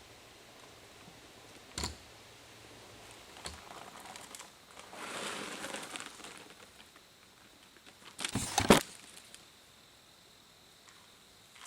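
Handling and filling a deer feeder: a couple of sharp knocks, a rustling pour of feed lasting a second or two, then a quick cluster of loud clanks, the loudest sound here, near the end.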